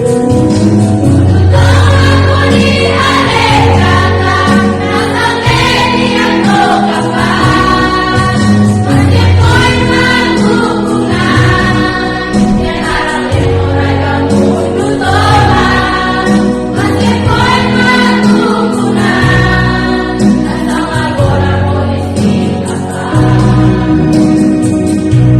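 Choir singing a Christian hymn-like song over a steady instrumental backing with bass and guitar.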